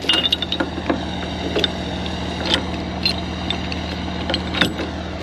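Semi truck's diesel engine idling steadily, with scattered metallic clinks and knocks from gear being handled about half a dozen times.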